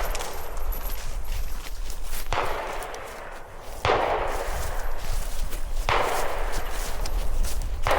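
Gunshots, five in all, spaced roughly one and a half to two seconds apart, each sharp report followed by a short decaying echo. A steady low rumble sits underneath.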